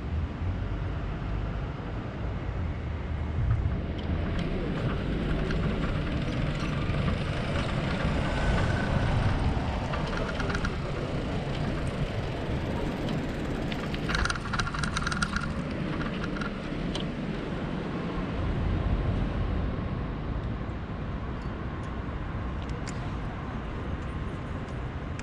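Steady rumbling noise of a bicycle being ridden with a handlebar-mounted GoPro, with wind buffeting the microphone, swelling and easing. There is a short burst of rattling clicks about fourteen seconds in.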